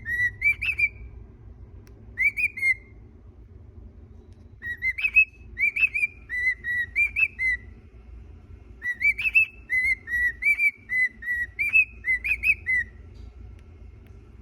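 A cockatiel whistling its song: phrases of clear, rising-and-falling whistled notes, several notes a second, with a couple of short pauses between phrases.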